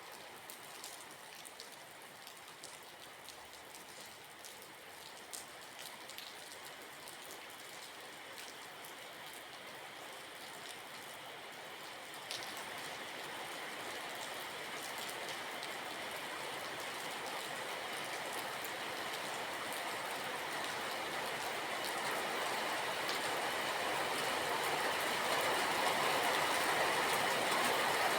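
Rain pattering, with scattered sharp drop ticks. Through the second half a steady rushing noise swells louder and louder.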